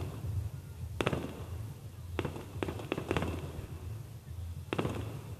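Fireworks bursting: a series of sharp bangs, about eight of them in irregular clusters, over a steady low rumble.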